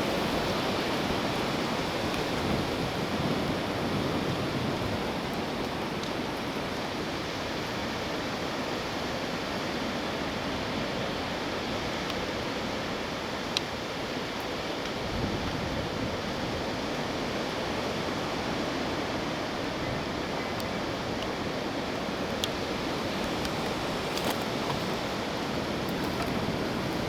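Strong wind blowing during a cold front: a continuous, even rushing noise with no gusting breaks. One brief tick sounds about halfway through.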